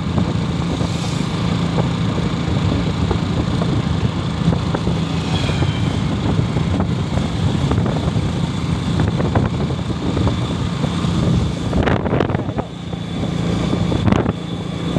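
Motorcycle engine running steadily under way, briefly dropping in loudness near the end.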